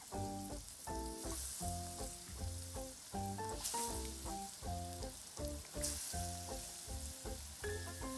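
Starch-coated dried king oyster mushroom sticks frying gently in oil at a low starting temperature: a steady fine sizzle. Background music with a plucked melody and bass plays over it.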